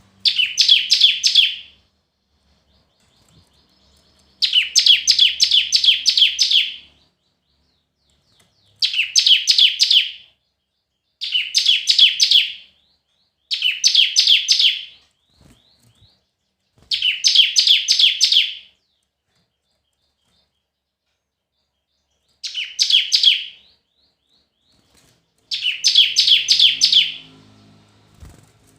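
A small songbird singing in eight short bursts, each a fast run of rapidly repeated high notes, with gaps of a second or several seconds between them.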